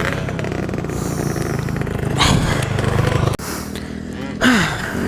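2006 Honda CRF250R's single-cylinder four-stroke engine running at low revs, its level dropping abruptly about three seconds in. Two short, loud rushes of noise come through, the second with a falling tone.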